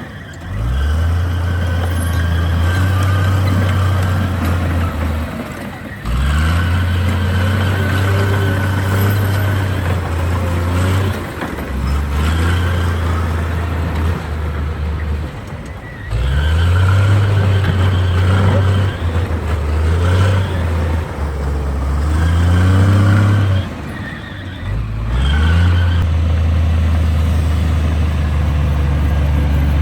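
Komatsu D58 bulldozer's diesel engine working under load, its revs dropping off and climbing back up every four to six seconds as the machine pushes and eases off, with a steady low drone in between.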